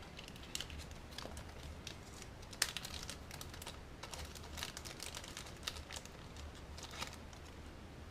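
Small plastic parts and packaging handled on a workbench: light irregular clicks and taps with a little crinkling, busiest from about two and a half to five seconds in.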